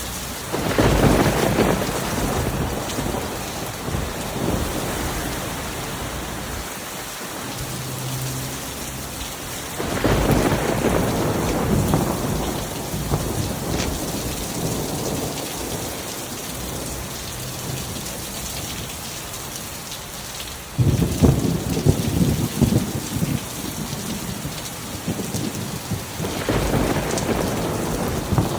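Steady heavy rain with rolling thunder. Four rumbles: one just after the start, one about ten seconds in, a sudden sharp clap about twenty-one seconds in (the loudest), and another near the end.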